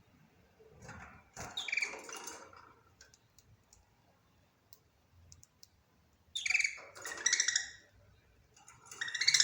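Budgerigar warbling and chattering in short bursts: one about a second in, another around six seconds in, and a louder one starting near the end, with faint clicks in the quiet gaps between.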